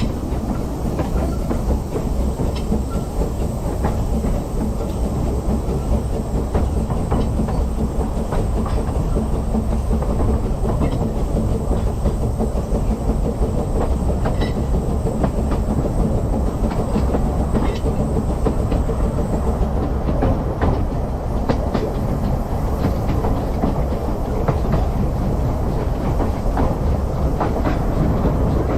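Narrow gauge steam train running along the track: a steady rumble with scattered clicks and knocks from the wheels and rail joints.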